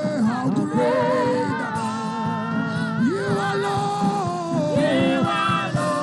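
Gospel worship singing: several voices holding and sliding between long sung notes with vibrato, over a steady sustained accompaniment.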